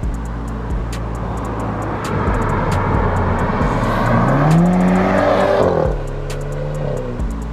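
BMW 428i with an aftermarket exhaust driving, its engine note climbing steadily about four seconds in and then dropping away near six seconds, over a steady low rumble.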